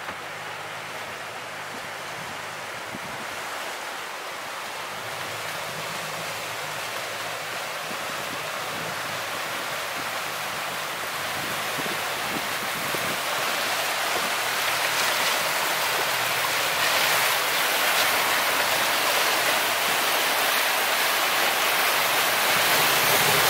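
Rushing water of a shallow, choppy river stretch around a moving boat: a steady hiss that grows steadily louder.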